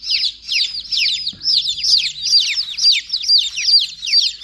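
A box of newly hatched Silkie chicks peeping loudly and continuously, many high, downward-sliding peeps overlapping several times a second.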